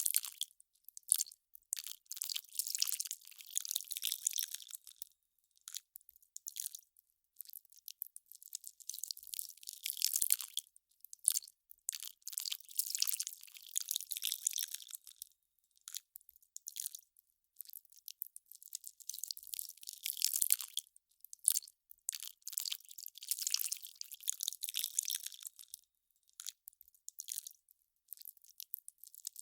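Ice crackling in irregular bursts of dense, high, crisp clicks, with short pauses between the bursts.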